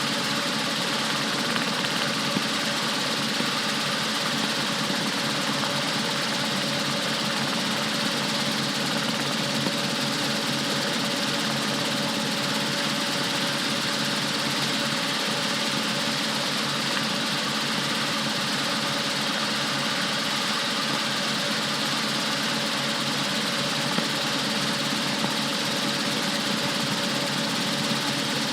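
Rotorway 162F helicopter running steadily: a constant drone of its piston engine and rotors, holding the same pitch throughout.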